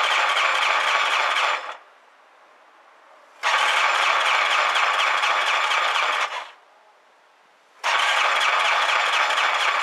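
Electric starter cranking the Honda Spacy 250 Freeway scooter's engine in repeated attempts of about three seconds each: one attempt ends early on, a second runs from about three and a half to six seconds, and a third begins near the end, with no running engine between them.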